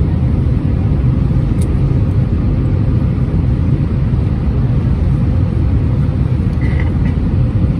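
Steady low rumble of engine and airflow noise inside the passenger cabin of an Airbus A320-231 with IAE V2500 engines.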